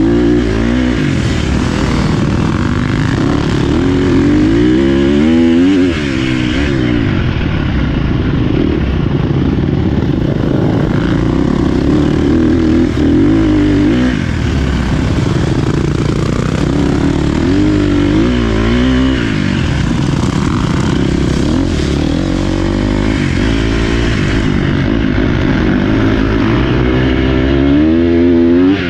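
Dirt bike engine under load, revving up and falling back again and again as the rider works through the trail.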